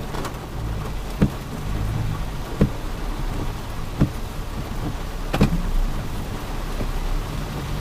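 Steady rain falling, with a short low thump repeating evenly about every second and a half.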